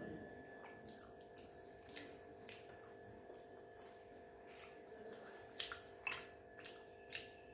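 Eating sounds: scattered soft, wet mouth clicks of chewing, a few louder ones near the end, over a steady faint hum.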